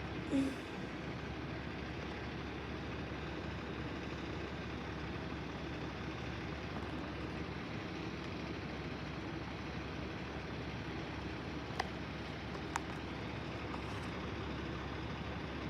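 A truck's engine idling steadily. There is a brief louder sound just after the start, and two sharp clicks about a second apart near the end.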